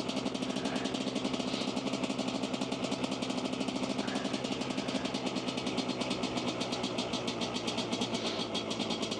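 Dirt bike engine running at a steady, unchanging pitch, its exhaust pulsing evenly.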